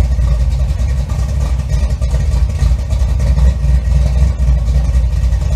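Car engine running loudly with a steady low rumble.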